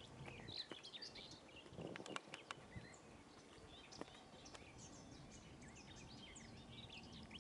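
Faint birdsong: birds chirping in short, scattered notes over a quiet background hiss, with a few soft clicks.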